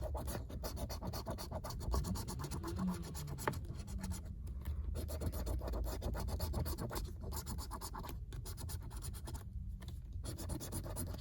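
Coin or scraper scratching the latex coating off a lottery scratch-off ticket in quick, rasping strokes, broken by a few short pauses.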